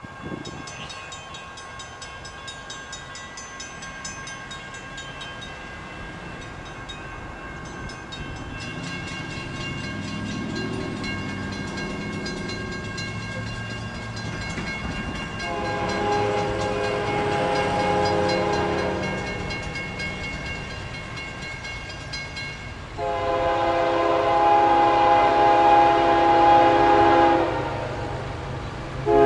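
Approaching freight train hauled by GE diesel locomotives: a low rumble grows steadily louder, and the lead locomotive's air horn sounds two long blasts, one about halfway through and a longer one near the end.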